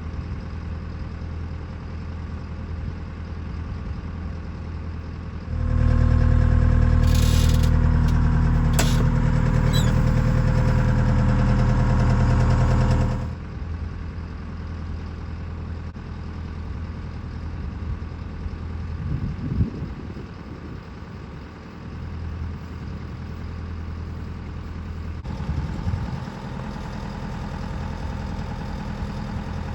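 Diesel engine of a heavy work machine running steadily, rising to a much louder run for about seven seconds near the middle, with a couple of short hisses during the loud stretch.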